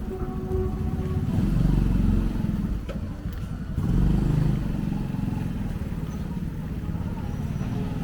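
Motorbike engines running in street traffic, growing louder twice, about one and a half and four seconds in, as they pass close.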